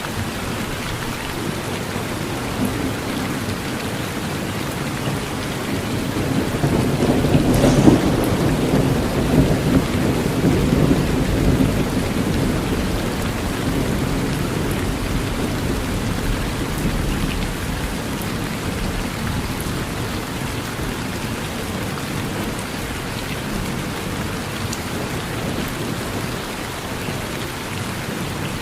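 Steady rain falling through a thunderstorm. A roll of thunder builds about a fifth of the way in, cracks sharply, then rumbles away over several seconds.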